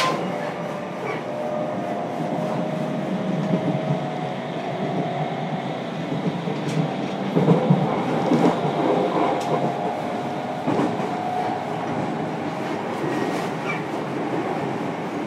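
Running sound inside a JR Kyushu 303 series electric train, motor car MoHa 303-103, under way between stations: steady wheel-and-rail noise with a steady tone running through it. There are a few louder knocks about seven and a half and eleven seconds in.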